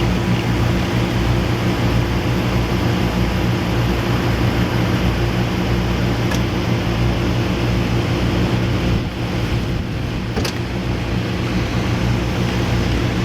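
A steady, loud low engine drone made of several unchanging low tones, dipping slightly about nine seconds in.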